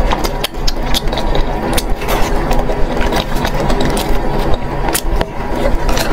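Close-miked eating sounds: chewing, biting and many quick wet mouth clicks as spicy food is eaten off a skewer, over a steady low hum.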